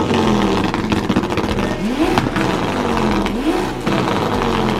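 A car engine being revved hard in repeated blips, each quick rise in pitch followed by a slower fall, roughly a second and a half apart.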